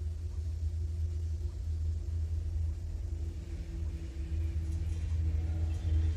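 Low, steady rumble of an approaching train hauled by a WAP7 electric locomotive, with a faint steady hum above it.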